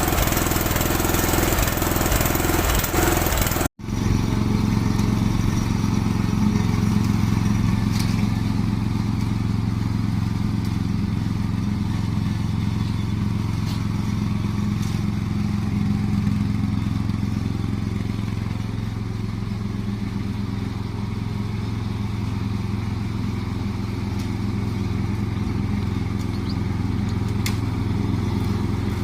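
Engine of an MTD ride-on lawn tractor running steadily. It cuts out completely for a split second about four seconds in, then carries on with less hiss.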